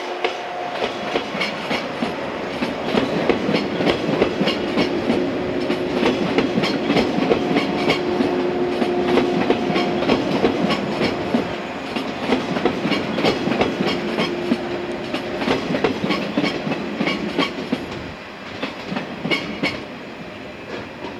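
Electric multiple-unit train of two coupled sets running past, its wheels clacking over rail joints in a steady stream of clicks above a steady hum. The sound eases off near the end.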